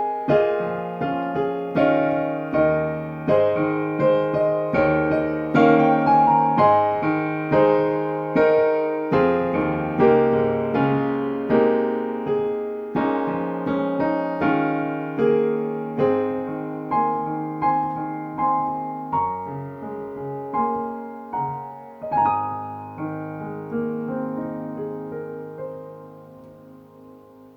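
Solo piano playing a slow, even run of chords that thins out and ends on a final chord, struck about three quarters of the way through and left to ring away.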